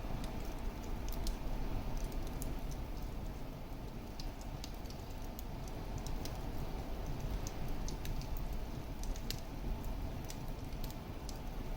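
Fire crackling in a fireplace: irregular sharp pops and snaps, several a second, over a steady low rumble of the burning flames.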